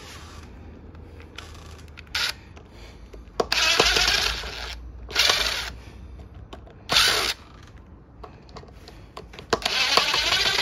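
Power drill-driver run in five short bursts, backing out the screws that hold the old deadbolt's plate in the door edge. The longest burst lasts about a second and a half.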